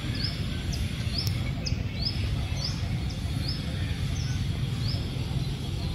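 A small bird chirping over and over, short high notes one or two a second, over a steady low rumble.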